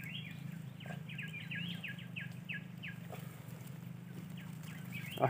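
Small forest birds chirping in quick series of short falling notes, thickest in the first couple of seconds and again near the end, over a steady low hum.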